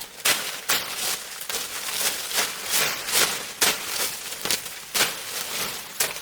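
Footsteps crunching through dry forest leaf litter, a steady walking pace of about two steps a second.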